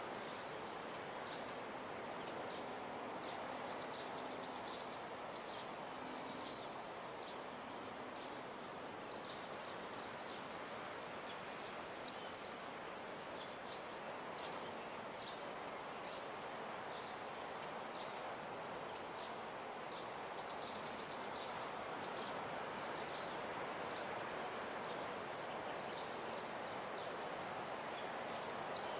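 Steady rushing wash of waves on a beach, slowly swelling, with small birds chirping over it and a short high trill twice.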